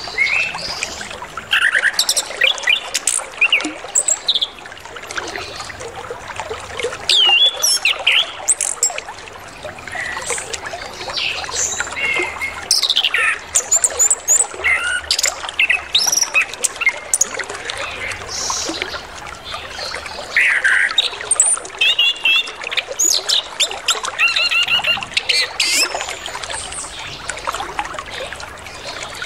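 Orange-headed thrush singing a long run of quick, varied whistled and chattering phrases, over flowing, trickling water.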